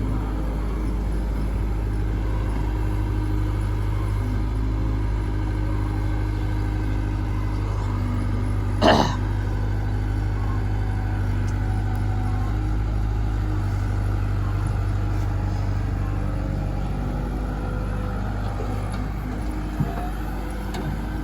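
Heavy diesel engine running steadily, with one short loud noise about nine seconds in.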